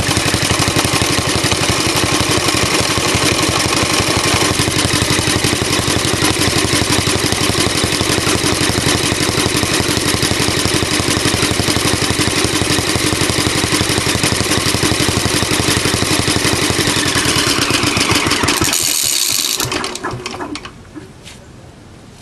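Alpha De Laval stationary engine running steadily and driving a Century generator. About 18 seconds in it shuts down and runs out with a falling whine, stopping about 20 seconds in, with a few faint clicks after.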